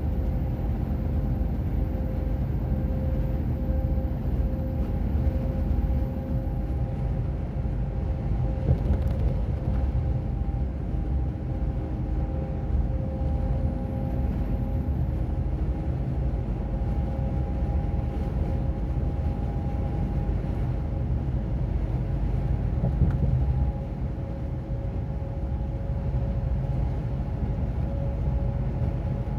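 Articulated truck on the move: a steady low rumble of engine and tyres with a faint constant whine over it, easing slightly in level about three-quarters of the way through.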